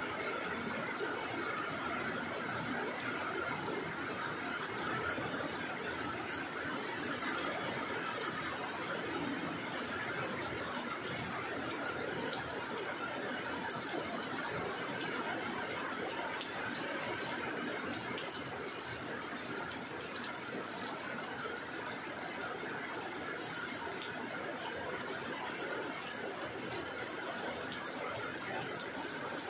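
Steady rain falling onto wet ground and standing water: an even hiss with many small drop ticks.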